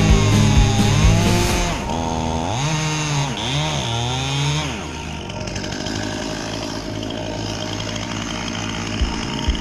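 A chainsaw revving up and down several times, then running steadily as it cuts. Background music with a drum beat plays over it; the beat drops out after about a second and a half and comes back near the end.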